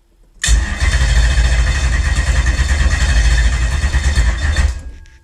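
Lexus 1UZ-FE V8 cranked over on its starter motor for about four seconds without catching, then dying away near the end. The battery is low and gives only a couple of seconds of cranking.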